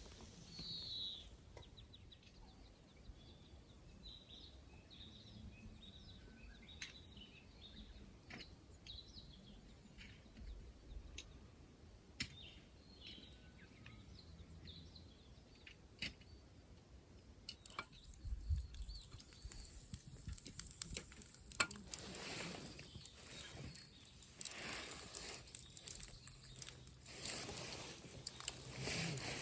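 Quiet outdoor ambience with faint, scattered bird chirps; in the last third, a stretch of rustling and crackling with many sharp clicks.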